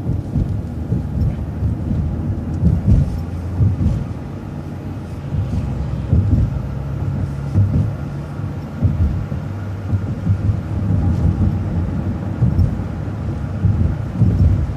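City transit bus driving along, heard from inside: a steady low engine and road rumble with uneven swells and buffeting.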